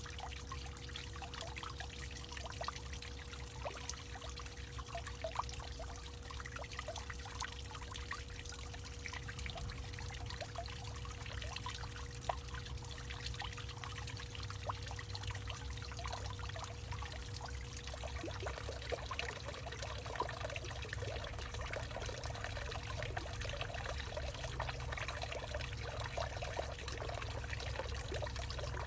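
Water trickling and dripping in many small, quick splashes, growing busier in the last third, over a steady low rumble and a faint steady hum.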